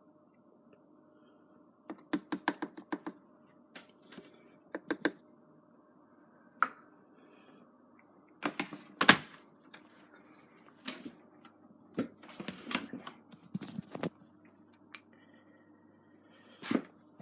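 Sharp clicks and knocks from handling a Beko washing machine, including a quick run of about six clicks and one louder knock about nine seconds in, over a faint steady hum.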